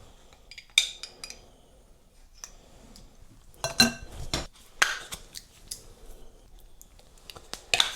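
Irregular clicks and clinks of a utensil against dishes and containers while nacho toppings are spooned out, in small clusters about a second in, around four to five seconds in, and near the end.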